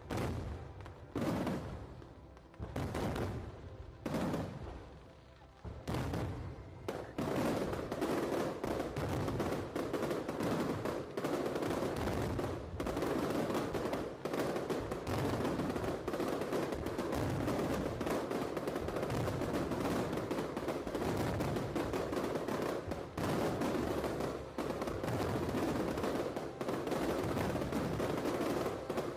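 Aerial fireworks going off. For the first several seconds single shells burst one after another, each fading away. From about seven seconds in they merge into a dense, rapid crackling barrage.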